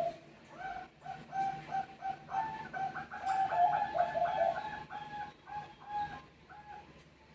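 Zebra doves (perkutut bangkok) cooing, a quick run of short, repeated staccato notes that overlap as the birds answer one another. The calls stop about six seconds in.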